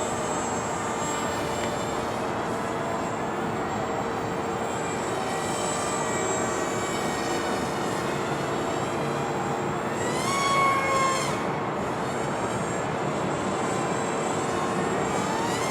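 Twin small brushless electric motors (Emax 1106 8000kv) with 3-inch propellers on a foam RC flying wing, buzzing steadily in flight; the pitch climbs sharply as the throttle is pushed up about ten seconds in, and rises again near the end.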